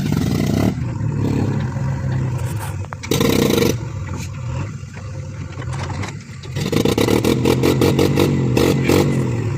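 Heavy diesel engine running, with a short burst of revving about three seconds in. From about seven seconds in it revs hard, with a rapid, pulsing exhaust chuff.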